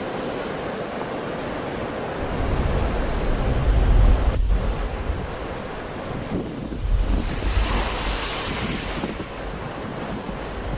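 Sea waves washing on the shore in a steady hiss, with one wave breaking more loudly about three-quarters of the way through. Wind buffets the microphone in low gusty rumbles.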